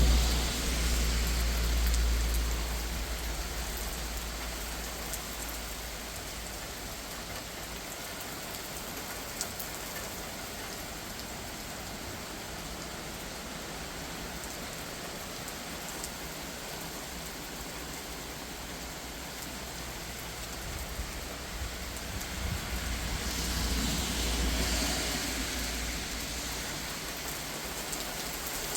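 Steady rain falling. A low rumble of thunder fades over the first couple of seconds, and another swells about three quarters of the way through.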